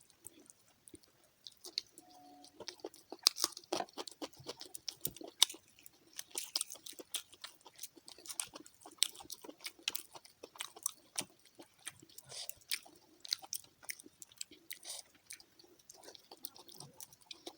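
A person chewing fried fish close to the microphone, with many small crunches and wet mouth clicks in an uneven run.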